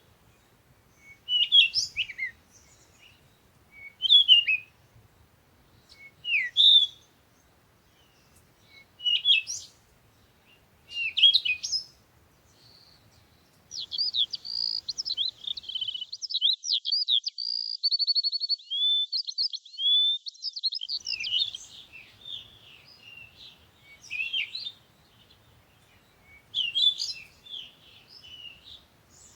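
Birds chirping: short, high calls repeated about every two seconds, then a longer, varied song with a rapid trill around the middle, then scattered chirps again near the end.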